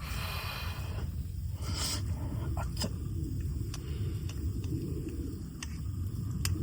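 Wood campfire burning: a steady low rumble with scattered sharp crackles and pops, about half a dozen, and a short hiss in the first second.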